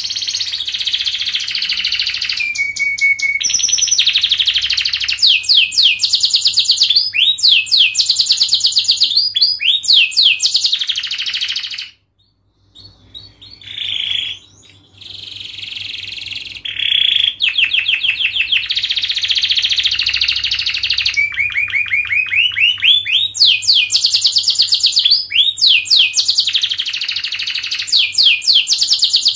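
Domestic canary singing a long, fast song of rapid trills and sweeping notes, with a short break about twelve seconds in before it carries on.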